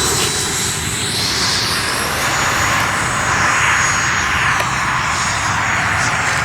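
Electric ducted-fan RC model F-4 Phantom jet in flight: a steady rushing fan noise with a thin high whine that shifts in pitch as it moves.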